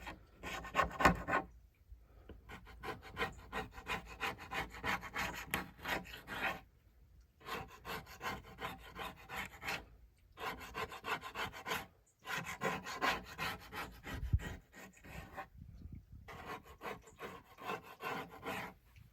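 Plastic scraper working glue residue, softened with Goo Gone, off a wooden kick drum shell. It goes in runs of quick, rasping back-and-forth strokes with several short pauses between them.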